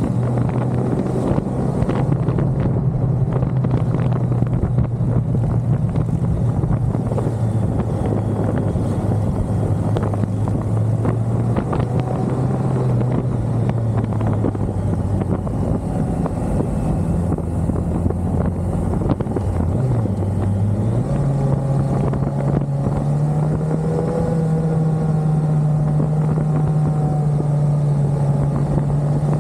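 1985 BMW K100's inline four-cylinder engine running at a steady cruise, heavy wind rush over the microphone. About two-thirds of the way through the engine note dips briefly, then climbs and holds a little higher.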